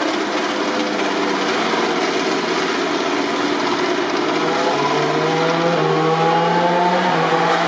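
MotoGP racing motorcycle engines (1000 cc four-cylinder prototypes) running at high revs. About four and a half seconds in, one engine rises steadily in pitch as the bike accelerates.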